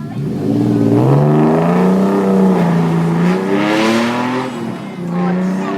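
Supercar engine revving hard, its pitch climbing steeply, holding, dropping briefly about five seconds in and rising again.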